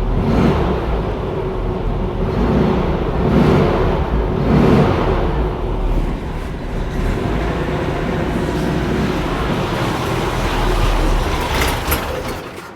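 Air-cooled flat-four engine of a vintage VW Bus running at a rough idle, the revs swelling and sagging several times in the first few seconds before settling steadier: the freshly rebuilt engine's idle and mixture are still being adjusted and it is not idling smoothly.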